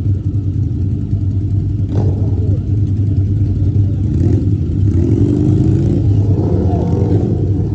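Motorcycle engine running steadily while riding, with a strong low hum throughout.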